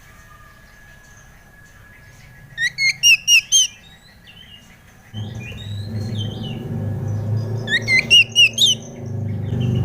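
Oriental magpie-robin (kacer) song: two bursts of about five quick, loud hooked whistles a few seconds apart, with softer warbles between. A low steady hum comes in about halfway and grows louder.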